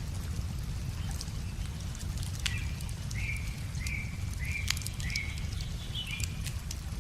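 Wood fire crackling with sharp scattered pops over a low steady rumble. From about two and a half seconds in, a songbird repeats a short chirping note roughly every two-thirds of a second, seven or eight times.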